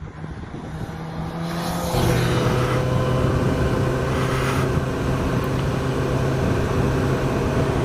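Suzuki GSX-S1000's inline-four engine running under way, heard from the bike itself; it grows louder over the first two seconds, then holds a steady note.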